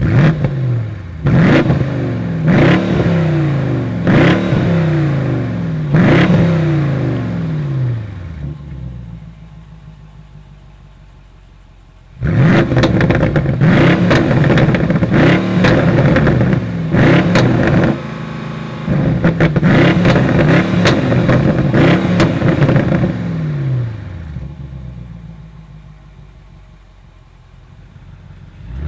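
BMW M850i's 4.4-litre twin-turbo V8 at full-throttle acceleration, twice. Each time the engine note climbs and then drops sharply several times as the eight-speed automatic upshifts, then dies away as the car lifts off and coasts.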